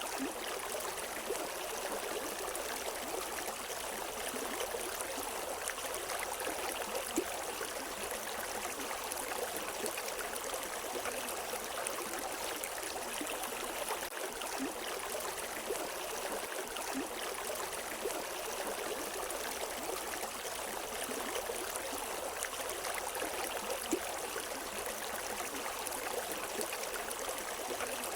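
River water running over rocks: a steady rushing stream with small splashes and trickles, no birds.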